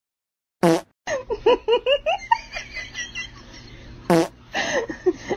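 Two short comic fart sound effects, each dropping in pitch, about three and a half seconds apart. Bursts of human laughter fill the time between and after them.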